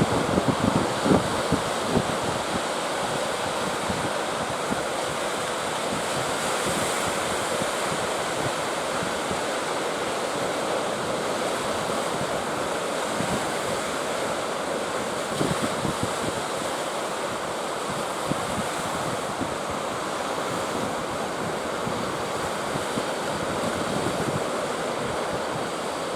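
Sea surf rushing and breaking, with strong wind buffeting the microphone: a steady, loud roar of noise.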